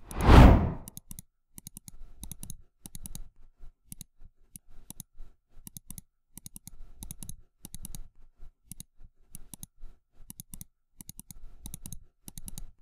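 Computer-keyboard typing sound effect: many rapid, irregular clicks in clusters, accompanying text being typed out on screen. It opens with a single loud whoosh in the first second.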